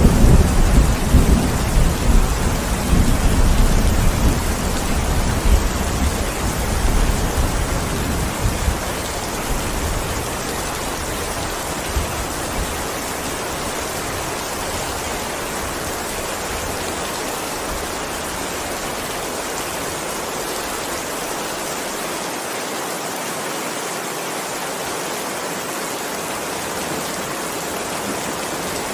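Heavy rain falling steadily as an even hiss. A low rolling rumble of thunder opens the sound and dies away over the first ten seconds or so.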